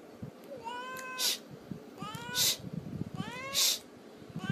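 A domestic cat meowing over and over, one short meow about every second and a quarter. Each meow is followed by a brief high hissing noise.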